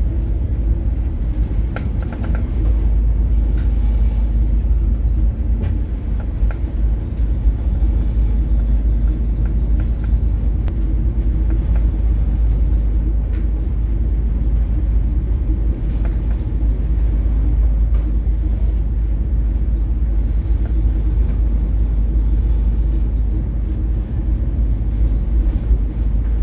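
Steady low rumble on board a coastal cargo ship under way in heavy seas: the ship's engine and hull noise, unbroken throughout.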